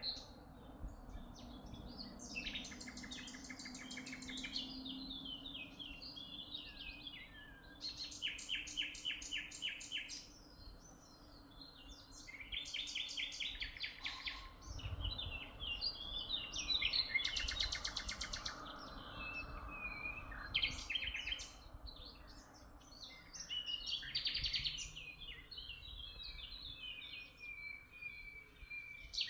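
Songbirds singing: a fast, high trilled phrase repeats every few seconds, with shorter chirps and twitters in between.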